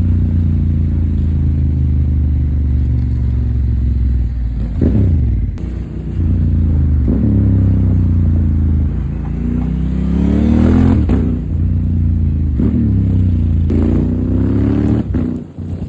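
Honda Africa Twin 1100's parallel-twin engine through an Akrapovic exhaust, running at a steady pitch for about four seconds. It then revs up and drops back several times as the bike accelerates through the gears, with its highest climb near two-thirds of the way in.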